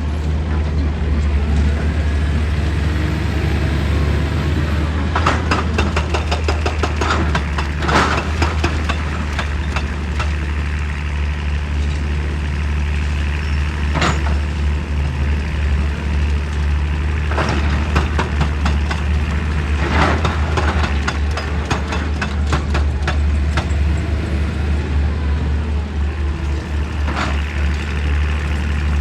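Excavator diesel engine running steadily, with several bunches of sharp knocks and clanks.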